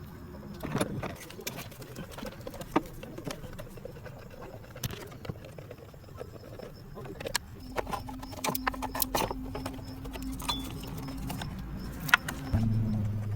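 Scattered small metallic clicks and knocks of hand tools being handled during engine work. A steady hum joins about halfway through, and a louder low hum starts near the end.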